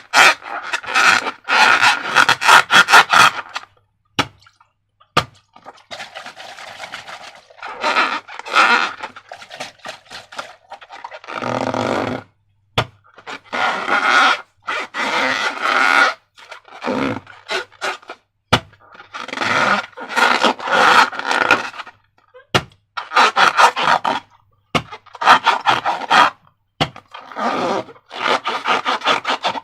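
Slime being squished and worked by hand: wet, crackly squelching in repeated bursts of a second or two, with short silences between them and a few single sharp clicks.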